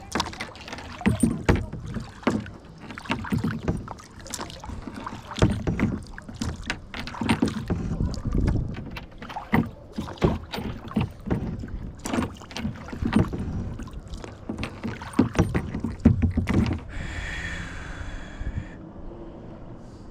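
Kayak paddling: a run of irregular paddle splashes and knocks in the water, which stop about three seconds before the end. A brief higher-pitched sound follows just after they stop.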